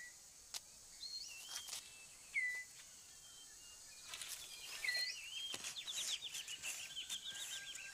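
Rainforest ambience with birds calling: short whistled notes that slide up and down, then from about five and a half seconds in a quick run of repeated rising notes, over a faint steady high insect hum and a few soft clicks.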